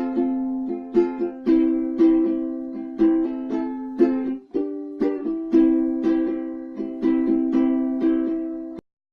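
23-inch soprano ukulele with nylon strings, strummed in chords about one to two strums a second, with a chord change midway. The playing stops abruptly near the end.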